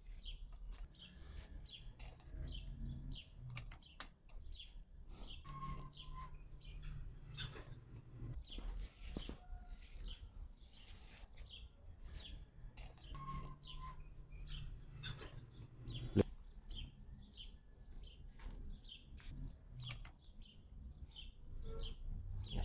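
Faint chirping of small birds, many short high chirps in quick succession. A low hum rises and fades twice, and a single sharp click comes about sixteen seconds in.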